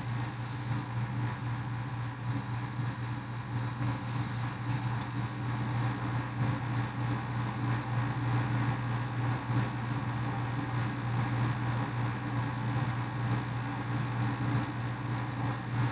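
A steady, low mechanical hum with a faint hiss over it, unchanging throughout, as from a motor running nearby.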